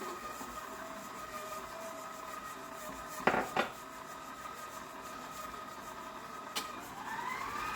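Electric mixer running steadily, creaming butter and sugar, with two sharp knocks a little over three seconds in and a smaller one later. Near the end the motor's whine rises in pitch as it speeds up.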